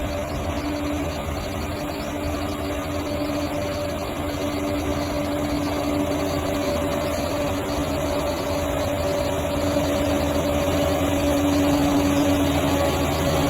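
Bulldozer's diesel engine running steadily, growing gradually louder.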